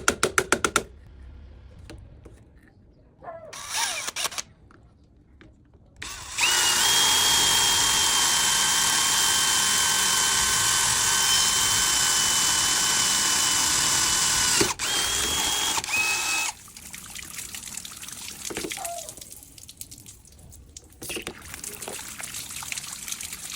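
A small power tool's motor runs at a steady speed with a constant high whine for about eight seconds, stops briefly and runs again for under two seconds. Quieter, scattered handling sounds come before and after it.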